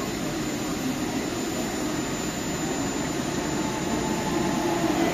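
Regional train of an electric locomotive and double-deck coaches pulling into an underground station platform. A steady rushing rumble grows louder toward the end, and a whine comes in near the end.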